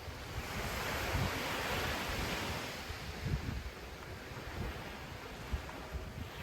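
Ocean surf: a wave breaks and its wash swells to a hiss about half a second in, then fades after a couple of seconds. Wind buffets the microphone throughout with a low rumble.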